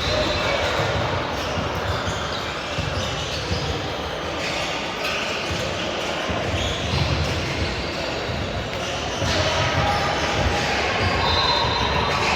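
Basketball being dribbled and bouncing on a gym floor during a game, with indistinct voices from players and spectators echoing in the hall.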